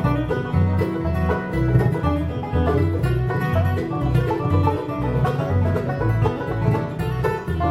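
Acoustic bluegrass band playing an instrumental break: banjo picking over strummed guitar, with a bass line pulsing steadily on the beat.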